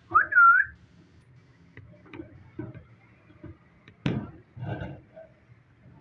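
Ringneck parrot giving a loud whistle that sweeps up and then arches over, followed by soft clicks and small sounds, with a sharp short sound about four seconds in and a rougher one just after.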